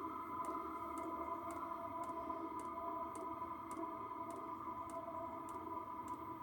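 Chinese diesel air heater running after it has settled down at a low setting: a steady hum from its blower and burner, with the fuel dosing pump clicking about twice a second.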